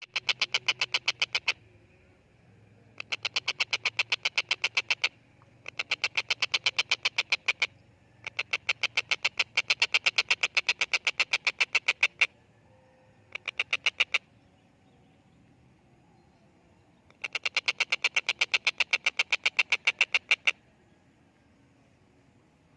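Stork-billed kingfisher (tengkek buto) calling: loud bouts of rapid, harsh repeated notes, each bout lasting one to four seconds, six bouts with short pauses between.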